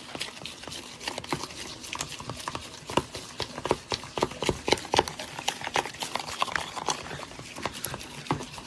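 Irregular clicking and tapping from kitchen work while cooking, many short knocks in quick succession.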